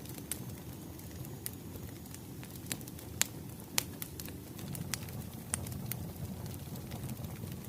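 Wood fire crackling: a steady low rumble of burning logs with irregular sharp pops, about a dozen, the loudest a little past three seconds in.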